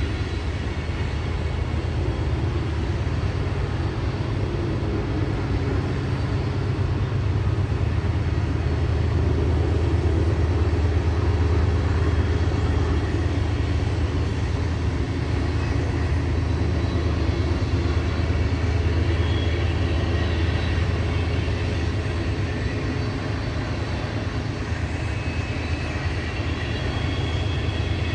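Freight train's diesel locomotives and rolling cars, a steady low rumble, with faint high squeals coming in over the last few seconds.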